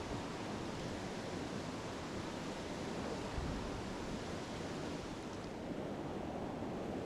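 Mountain stream water rushing over rocks, a steady even hiss.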